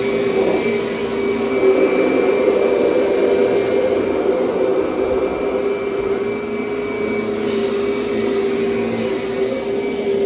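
Kirby upright vacuum cleaner running on plush carpet: a steady motor hum over a rushing hiss, its pitch wavering slightly now and then.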